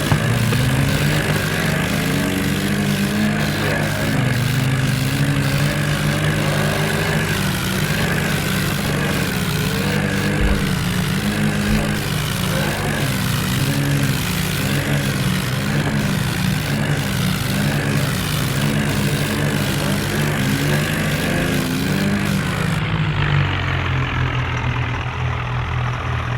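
Diesel tractor engines running hard under load, their pitch wavering up and down.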